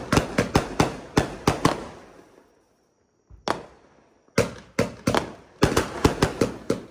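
Consumer fireworks cake firing shot after shot, several sharp bangs a second. The bangs trail off about two seconds in into a brief dead silence broken by one bang, then rapid bangs start again about halfway through.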